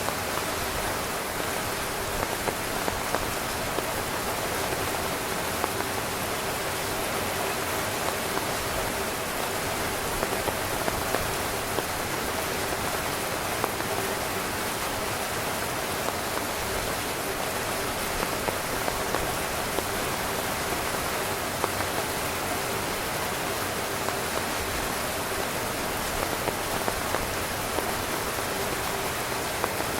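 Steady rain falling on a tent: an even hiss with scattered louder drop taps.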